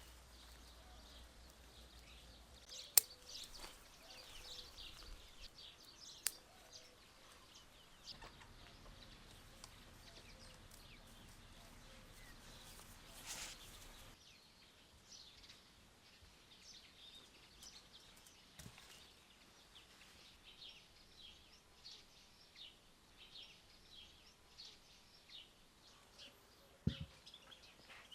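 Small birds chirping faintly in many short, high calls, thickest in the second half. A few sharp clicks cut in, the loudest about three seconds in, another about six seconds in and one near the end.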